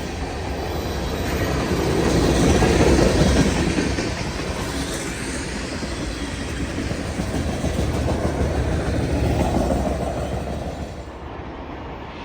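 Freight train cars rolling past on the rails, a steady rumble that swells a few seconds in and eases off near the end.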